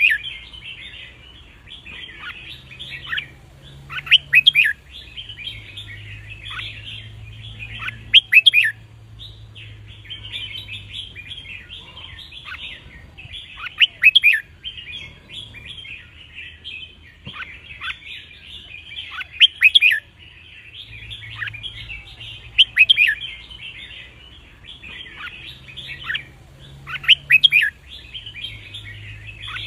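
Red-whiskered bulbuls singing: a constant chatter of chirps with a loud, clear song phrase standing out every few seconds.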